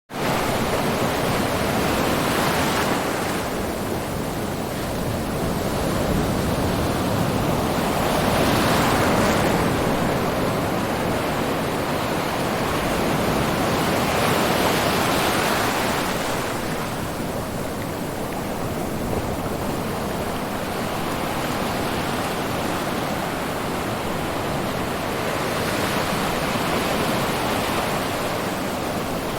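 Ocean surf: a continuous wash of waves breaking, swelling louder every five or six seconds as each wave crashes in. It starts abruptly at the very beginning.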